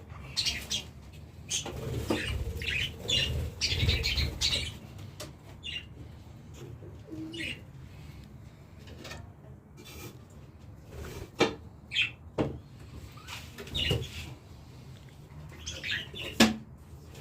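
Cage birds chirping in short, repeated calls, with wing flutters and a few sharp knocks from the cage or nest-box fittings.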